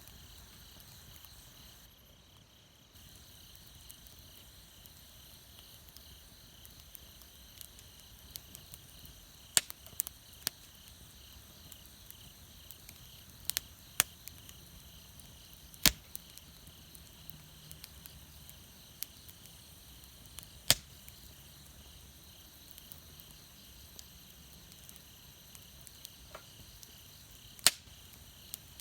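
Wood campfire crackling, with sharp pops every few seconds, about eight loud ones in all, over a steady high chirring of insects.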